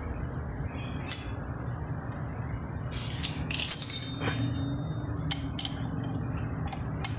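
Metal tools and small engine parts clinking as they are handled. There are separate clicks, and a louder metallic clatter lasting about a second midway, over a steady low hum.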